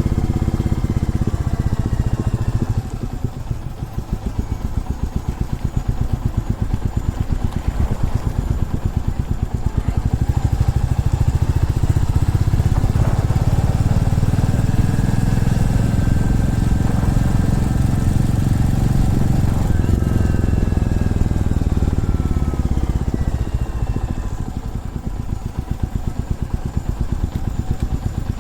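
Single-cylinder motorcycle engine running on the road, its pitch falling as the rider eases off, rising again as it pulls, then falling once more, with the level dipping about three seconds in and again near the end.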